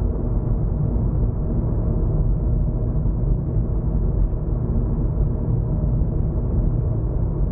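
Steady low rumble of a car being driven, with road and engine noise that stays even and unbroken throughout.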